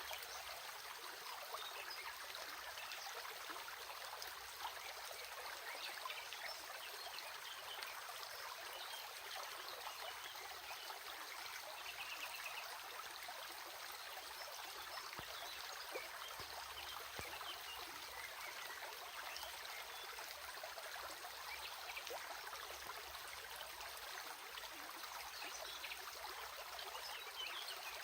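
Stream water running steadily, a constant rush with many small splashes and trickles.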